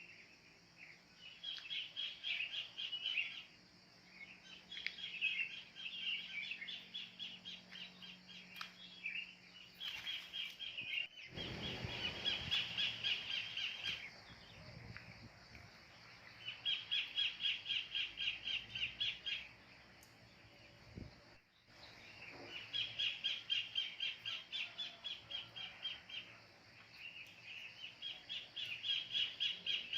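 Kingfisher calling in repeated bouts of rapid, evenly spaced sharp notes, about three or four a second, each bout lasting a few seconds, with short pauses between bouts. A brief low rumble sounds about 11 seconds in.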